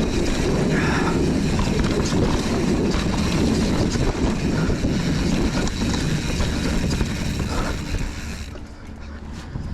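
Mountain bike descending a rough dirt trail: a steady rumble of wind and tyres with rapid rattling clicks from the bike, dropping away much quieter about eight seconds in.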